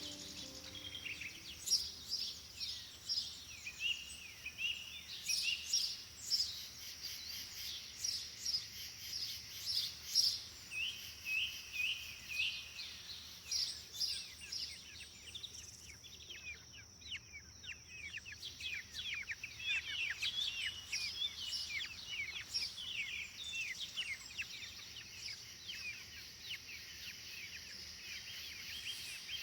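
Several small birds chirping and calling, many short, quick chirps over a steady outdoor hush.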